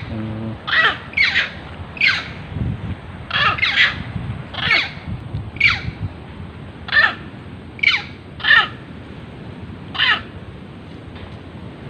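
An animal giving short, harsh calls over and over, roughly one a second and sometimes two close together.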